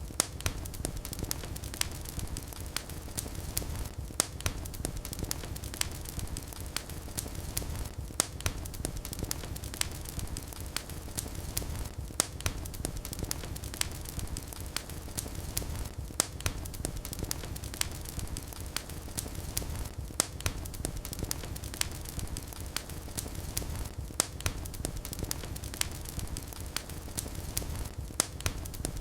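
Fireplace fire burning, with a steady low rumble of the flames and frequent sharp crackles and pops. A louder pop recurs about every four seconds.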